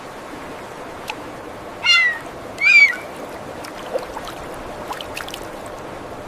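An animal giving two short, high, meow-like calls about a second apart, over a faint steady hiss with a few small clicks.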